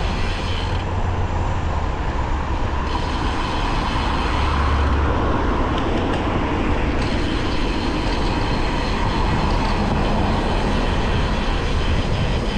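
Steady rumble of wind and road noise from a road bike in motion, with a heavy low buffeting of wind on the microphone.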